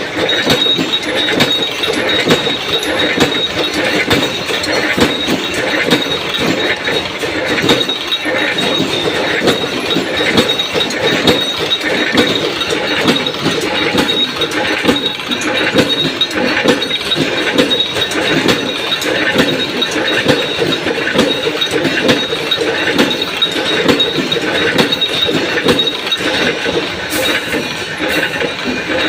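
Punch press running continuously, stamping out metal washers with a rapid, steady clatter of strokes and metallic clinking, over a steady high whine.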